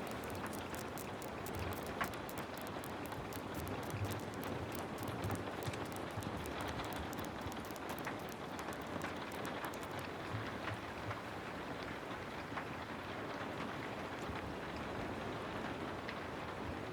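Steady rain falling, with many light, sharp ticks over roughly the first ten seconds that then thin out.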